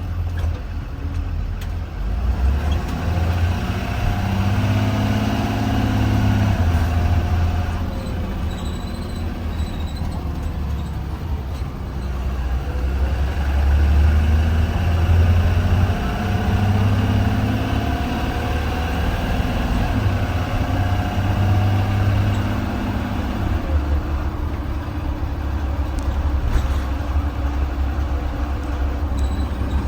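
2020 Blue Bird Vision school bus engine running under way. Its pitch rises and falls several times as the bus accelerates and changes gear, over a continuous low rumble.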